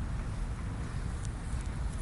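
Steady low rumble of wind buffeting the microphone outdoors, with a faint tick about a second in.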